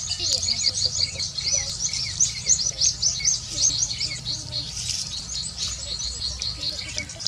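Many small birds chirping at once, a dense run of quick high chirps overlapping one another over a low rumble.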